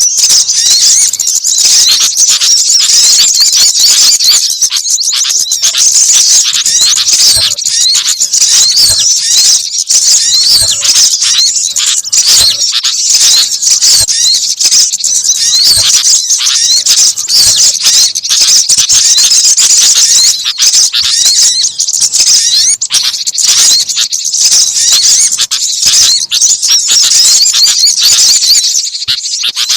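Bird-lure recording of small songbirds (a mix of sunbird, gelatik and bulbul calls): a dense, unbroken mass of high-pitched chirps and twitters, loud and crowded, with many short rising notes.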